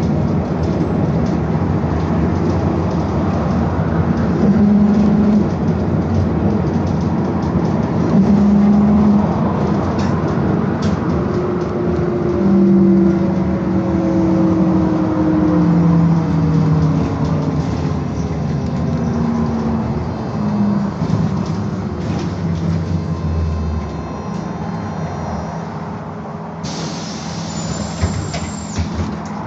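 BKM-221 trolleybus heard from inside while moving: steady road and running noise with the electric traction motor's whine falling in pitch as the trolleybus slows down. A faint high tone sounds near the end.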